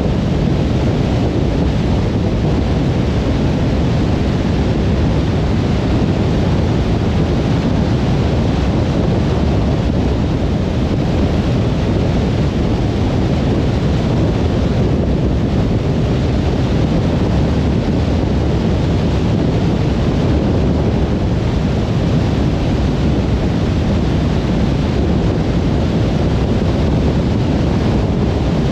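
Car driving at steady motorway speed: a continuous low road and tyre rumble with engine hum, unchanging throughout.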